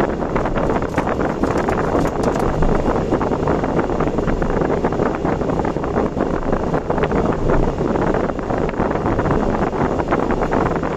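Steady road and wind noise from a car travelling at expressway speed, a constant low rumble with no change in pace.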